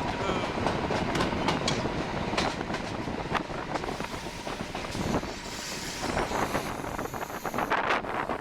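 Train running on the rails, heard from aboard, its wheels clicking and clattering over rail joints, with a higher hissing squeal for a couple of seconds after the middle.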